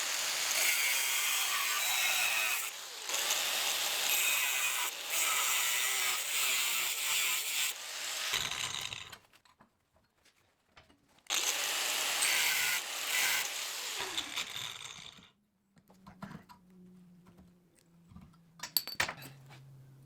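A power tool working steel in two long stretches of loud, dense noise, about eight seconds and then four. Between and after them it is much quieter, with a low hum and a few sharp clicks near the end.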